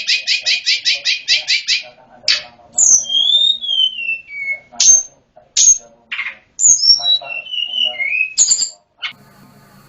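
A small songbird (tledekan gunung, also called sulingan gunung) singing: a fast trill of repeated notes, about six a second, then clear whistled notes sliding down in pitch, mixed with short sharp calls. The song breaks off about nine seconds in, leaving a faint hum.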